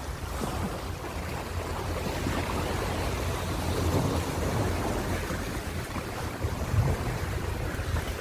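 Ocean surf washing in a steady rush with a deep low rumble, swelling about four seconds in.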